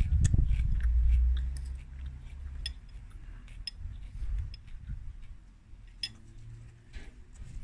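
Chewing a mouthful of lettuce, with a metal spoon clinking against a ceramic bowl a few times. A low rumble, the loudest sound, fills the first second or so.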